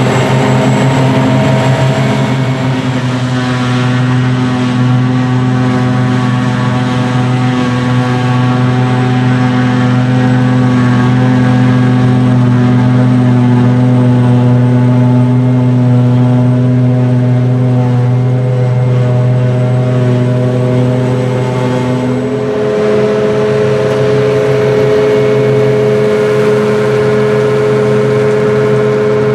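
Large diesel engines of silage harvesting machinery running steadily at high revs. The engine note shifts about 22 seconds in, when a new, higher steady tone comes in.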